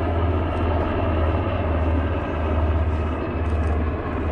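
Aircraft engine noise at an air show: a steady rumble that holds at one level throughout.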